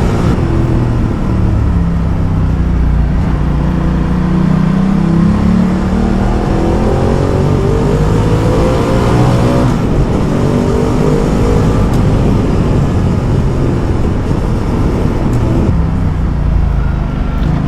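Ducati Multistrada motorcycle engine pulling under acceleration. Its pitch climbs for several seconds, drops suddenly at a gear change about ten seconds in, then climbs again.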